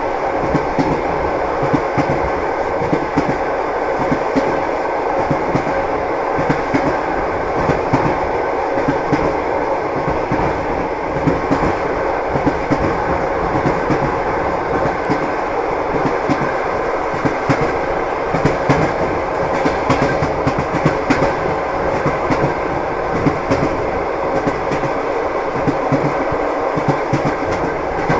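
Train wheels running on rails: a steady rumble of the moving carriage with continual clickety-clack knocks of the wheels over the rail joints.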